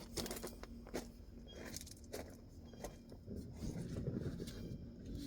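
Scattered small clicks, scrapes and rustles of handling, over a faint steady hum.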